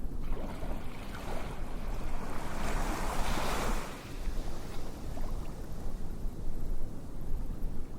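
Steady rushing noise like surf, with one wash swelling and fading about three seconds in.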